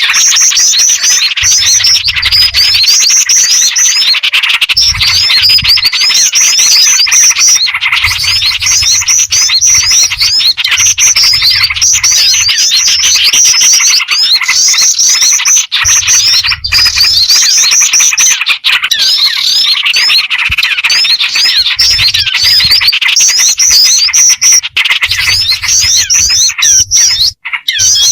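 A dense, continuous chorus of many overlapping small-bird chirps and rapid trills. This is a bird-trapping lure recording that mixes black-winged flycatcher-shrike (jingjing batu) calls with small-bird and yellow-vented bulbul (trucukan) calls.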